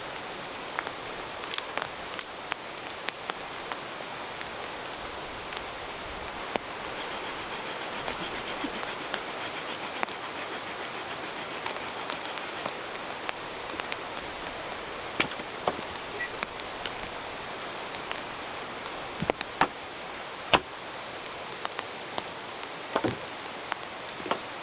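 Steady rain falling, an even hiss, with scattered sharp ticks of drops landing close by.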